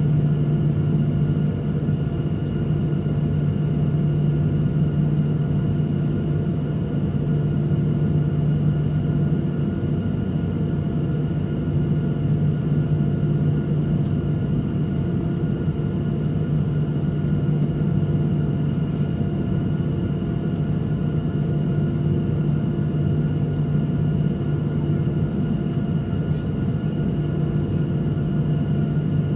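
Airliner engine and cabin noise: a steady low hum and rumble with a few fainter steady tones above it, holding at one level throughout without rising into a take-off roll.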